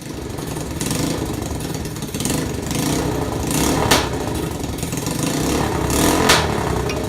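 Small 125 cc four-stroke quad engine fitted to a ride-on lawn tractor, running with mechanical clatter, and two sharp clacks about four and six seconds in.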